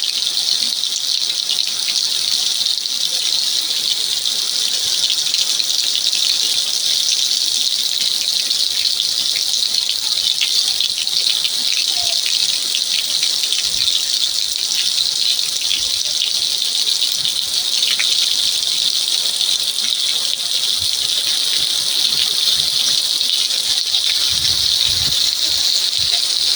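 Heavy rain pouring down steadily: a loud, even hiss of a downpour.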